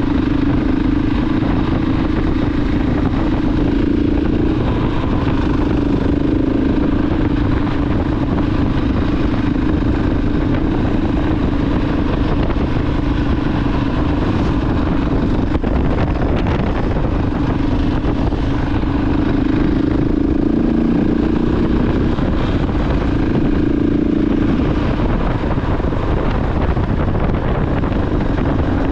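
KTM 690 Enduro R's single-cylinder engine running at a steady cruise under way, its note holding nearly even with small shifts in pitch, over continuous wind and road noise.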